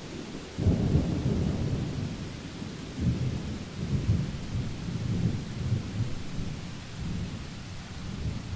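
Thunder rumbling and rolling in repeated low surges over steady rain hiss. The rumble fades out near the end, leaving the even hiss.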